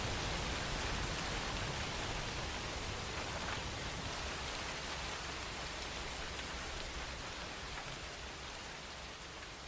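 Steady rainfall, an even hiss across the whole range, slowly fading out toward the end.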